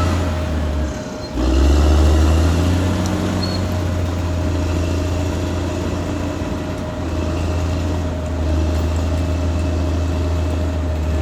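Caterpillar D6R XL bulldozer's diesel engine running steadily with a deep hum. It drops away briefly about a second in, then comes back louder.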